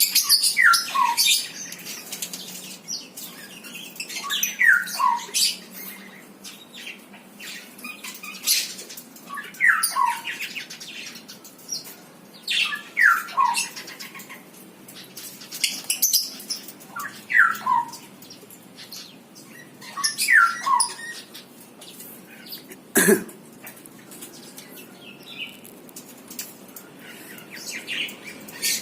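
Small birds calling: many short high chirps, and a pair of falling whistled notes repeated every few seconds. A single sharp knock about 23 seconds in.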